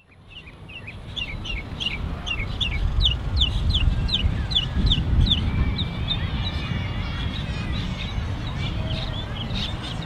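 Birds calling outdoors, fading in from silence: a run of quick downward-sweeping chirps, about two a second, then a mix of other bird calls. Under them runs a steady low rumble, the loudest part of the sound.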